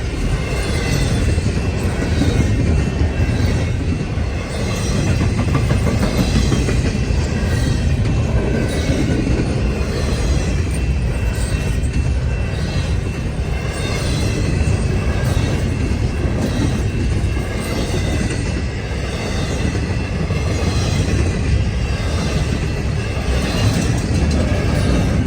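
Long freight train's railcars rolling past on the rails, a continuous steady rumble of wheels on track.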